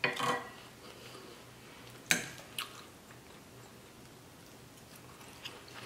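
A person chewing food, with a few sharp clicks, the loudest about two seconds in.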